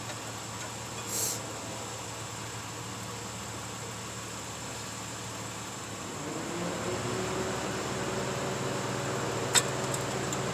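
A motor spins up about six seconds in and runs on with a steady hum, over a constant background hiss. There is a brief hiss about a second in and a single sharp click near the end.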